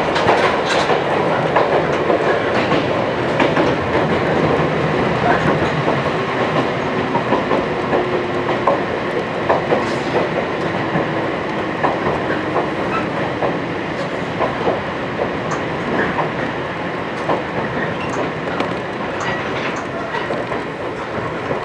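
Inside a Wakayama Electric Railway 2270 series electric train car running between stations: a steady rumble of wheels on rail, with short irregular clicks.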